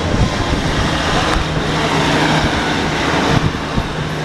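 Passenger train running, heard from on board: a loud, steady rush of wheel-and-rail noise and wind with a faint low hum under it.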